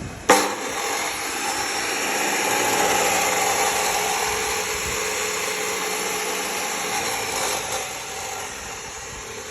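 Makita M2401B 355 mm metal cut-off saw switched on with a click, its 2000 W motor spinning up and running with a steady whine. The sound eases off near the end.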